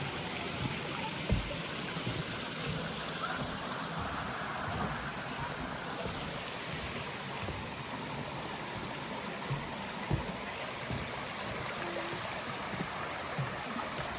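Steady rush of the River Trevillet's flowing water in the glen, with a couple of brief low thumps.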